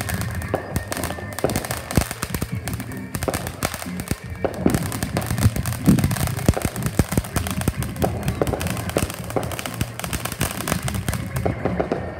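Fireworks going off in rapid, irregular crackling pops, many a second, with a few louder bangs among them.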